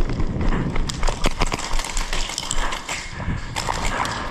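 Quick, irregular clicks and knocks from close-quarters airsoft play, several a second, with no single loudest event.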